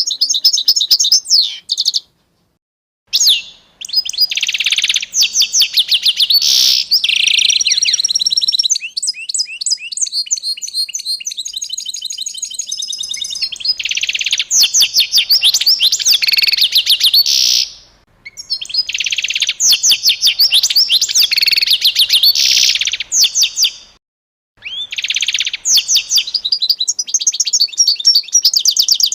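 Small songbird singing close by: rapid, high-pitched chirping trills in bouts of a few seconds, with short silent gaps between them.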